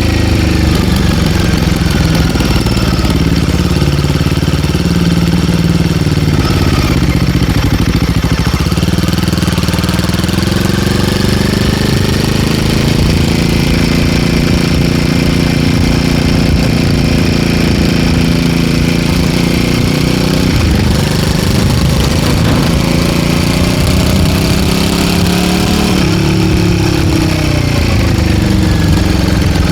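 Royal Enfield Guerrilla 450's single-cylinder engine running through an MTG link pipe exhaust, its revs rising and falling several times as the bike is ridden. The link pipe gives the exhaust a fuller, deeper note.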